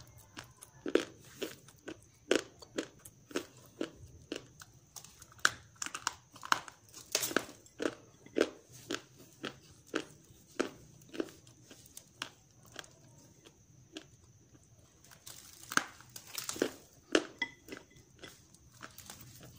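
Dried grey clay (gachi) being bitten and chewed in crisp crunches, about two a second, pausing a few seconds past the middle before a few louder crunches.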